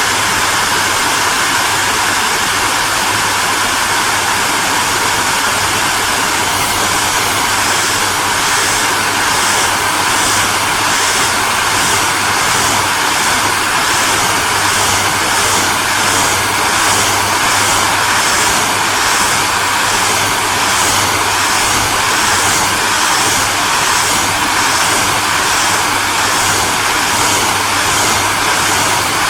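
Hair dryer running steadily: a continuous loud rush of fan and blown air over a low hum. From about seven seconds in, the high hiss pulses gently, a little over once a second.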